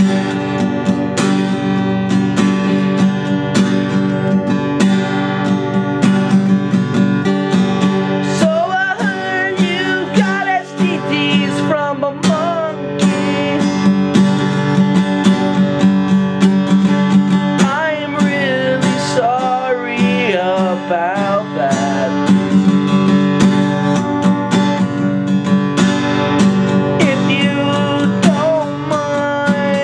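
Acoustic guitar strummed steadily, with a wavering voice-like melody coming in three times over it.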